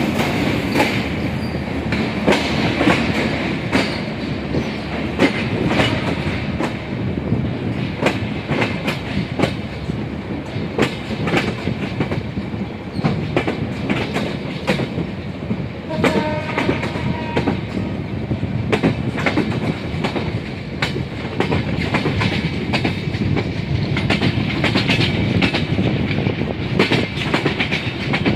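Train running on the rails, its wheels clicking and rattling over the track, with a short horn-like pitched tone about halfway through.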